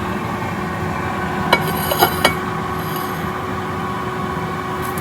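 Three quick metal clinks of a utensil against cookware, about halfway through, over a steady humming kitchen background.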